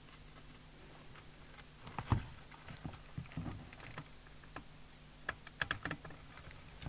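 Scattered small clicks and taps of hand tools and parts being handled while wiring is removed from an opened CB radio, the sharpest knock about two seconds in, over a faint steady low hum.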